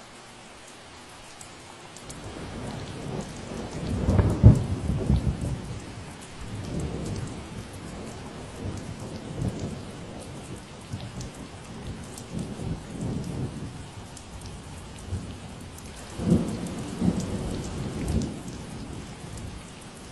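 Steady rain falling, with a long roll of thunder rumbling in about two seconds in. The thunder is loudest a couple of seconds later, swells again near the end, then fades.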